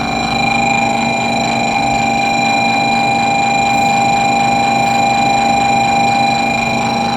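Steady electrical hum and whine with several fixed high tones from a Shinkansen train standing at the platform, unchanged throughout.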